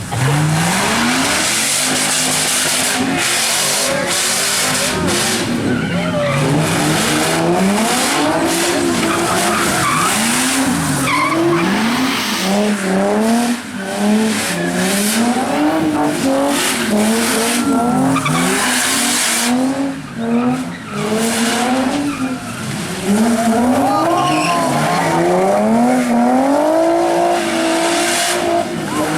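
A car engine revving up and down over and over as the car spins donuts, its pitch swinging roughly once a second, with tyres spinning and skidding on the pavement throughout.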